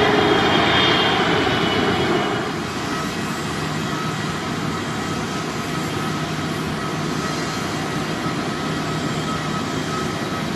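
Jet airliner engines: loud engine noise with a high whine that drops off after about two seconds, then a steady jet noise.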